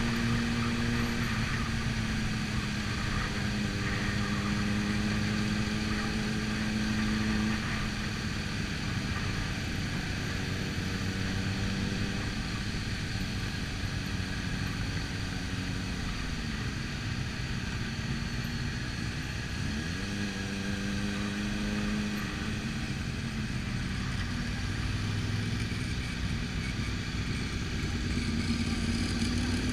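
Motorcycle engine running at steady low revs while riding slowly among a pack of other motorcycles. About two-thirds of the way in, the engine note drops and then picks up again.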